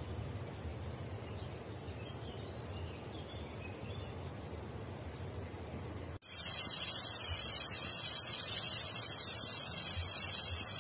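Shallow stream water running over rocks as an even rush. About six seconds in it cuts to loud, steady sizzling of chopped tomatoes frying in oil in a saj pan over wood embers.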